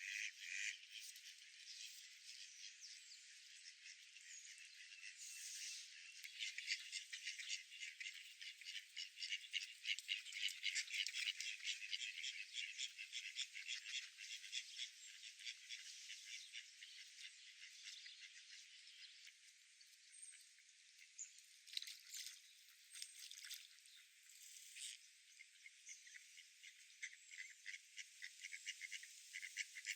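A dense chorus of rapid, rattling animal calls, high-pitched and thin, swelling for several seconds and then thinning out.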